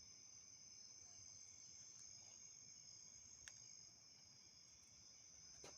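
Faint, steady high-pitched chorus of insects, with a single small click about halfway through and a crackle of rustling at the very end.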